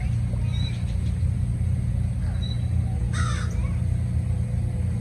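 A bird gives a single harsh call about three seconds in, over a steady low rumble.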